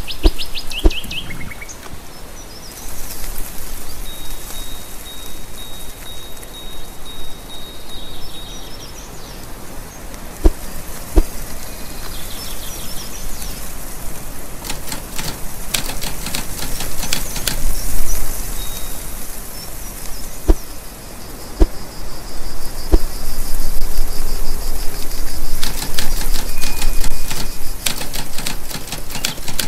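Birds chirping over a steady high hiss, with short whistled calls and, in places, quick flurries of sharp clicks like wing flaps.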